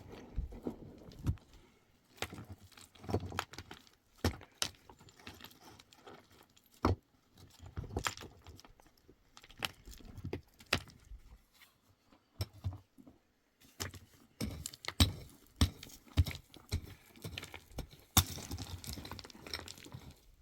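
Irregular clicks, taps and knocks, as of objects being handled and set down.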